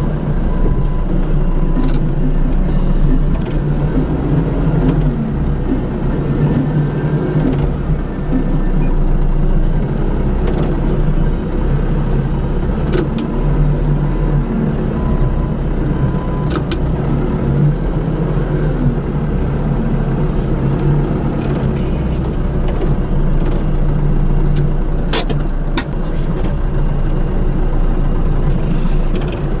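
Vehicle engine running steadily with a low rumble, with a few sharp metallic clicks or knocks over it.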